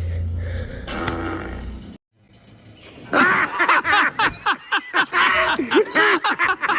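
A loud, wavering bellow from the monster-like combine harvester Frank, starting about three seconds in after a brief break, with music fading out before it.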